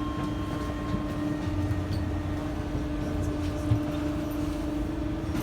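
Steady electrical hum of a Docklands Light Railway train standing at the platform, waiting to close its doors, with a thin high tone that stops about a second in and a single light knock later on.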